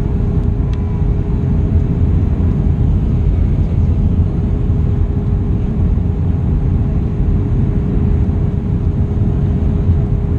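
Airbus A320 cabin noise on approach: a steady, loud rumble of engines and rushing air with a constant hum running through it.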